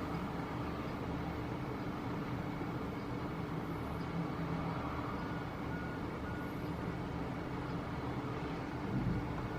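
Boeing 737-900ER jet engines running, a steady rumble with a faint steady hum over it.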